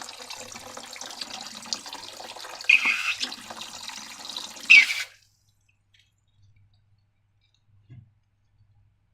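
Liquid being poured and sloshed, with three louder splashes, stopping abruptly about five seconds in; a single soft knock near the end.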